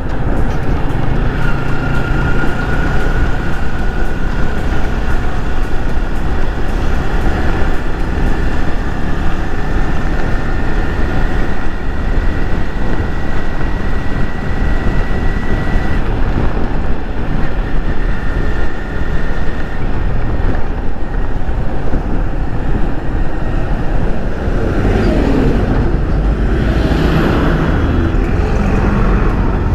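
Yamaha R15 V3's 155 cc single-cylinder engine running steadily under way, mixed with loud road and wind noise. About 25 seconds in, a passing vehicle briefly swells up and fades.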